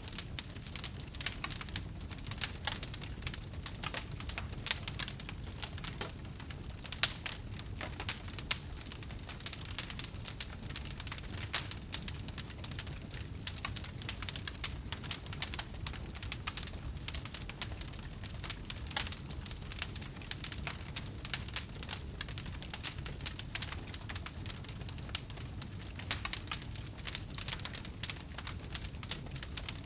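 Wood fire burning, crackling with dense, irregular pops over a low rumble.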